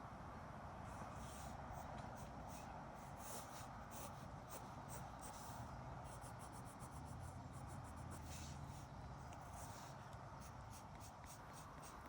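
Pencil-style sketching strokes scratching on paper, in quick runs of short strokes, over a steady low rumble of distant road traffic.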